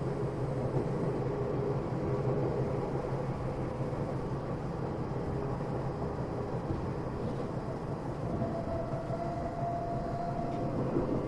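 Tokyo Metro 8000 series electric train heard from inside a passenger car while running, a steady rumble of wheels on rail. A faint steady whine joins in about eight seconds in.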